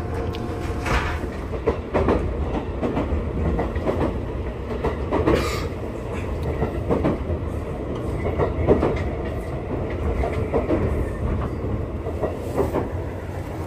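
Interior of a local electric train car while running: a steady low rumble with irregular clicks and knocks of the wheels over the rails.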